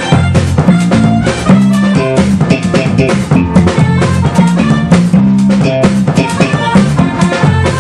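A band playing an instrumental passage: drum kit keeping a steady beat with rimshots, electric guitar and bass.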